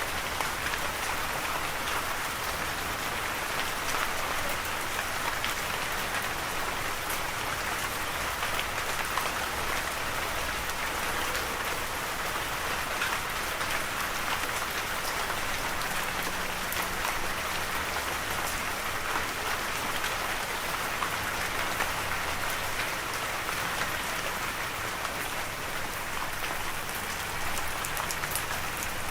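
Steady rain falling on a surface, an even hiss of drops with many small individual drop ticks.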